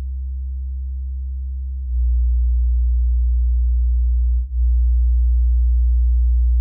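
Low bass test tones, steady pure tones below about 100 Hz, played through a small studio monitor with faint overtones. The tone steps louder about two seconds in, then dips for a moment and changes again about four and a half seconds in.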